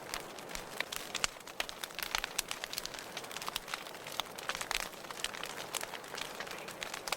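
Wood fire burning in a fireplace: irregular sharp crackles and pops, several a second, over a soft steady hiss.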